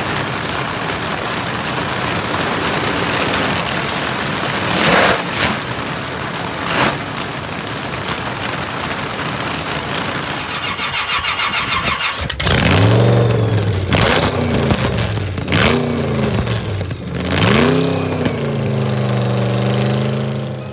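A steady hiss with a few short loud bursts, then about twelve seconds in a car engine fires up, is revved four or five times and settles into a steady idle.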